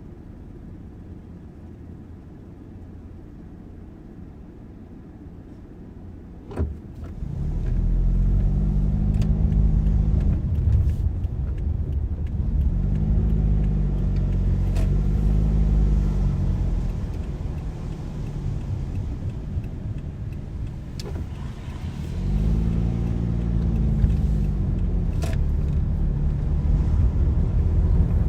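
Car engine that is quiet for several seconds, then, after a single click, pulls away and accelerates. Its pitch climbs and drops back several times as it works up through the gears. It eases off, then accelerates again with a rising pitch near the end.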